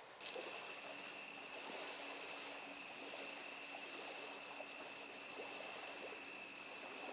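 Steady outdoor evening ambience: a continuous high-pitched insect drone over a soft hiss, with a few faint ticks. It starts abruptly just after the beginning.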